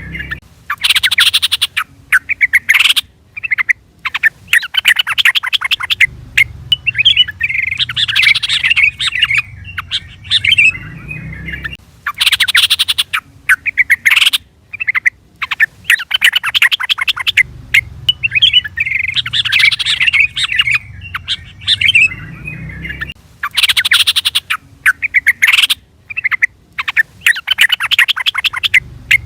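Yellow-vented bulbul (trucukan) calling loudly: fast harsh chatters alternate with bubbly pitched phrases, and the sequence repeats about every eleven seconds as in a looped call recording.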